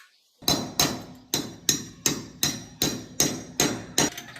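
Hammer blows struck at a steady pace, about ten sharp strikes, each ringing briefly, roughly two and a half a second.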